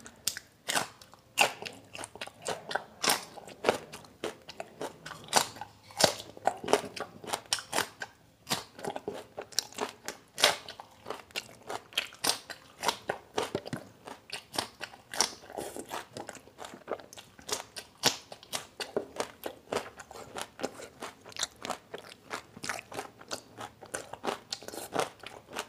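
Whole raw green chillies being bitten and chewed close to the microphone: a steady run of crisp, irregular crunches, two or three a second.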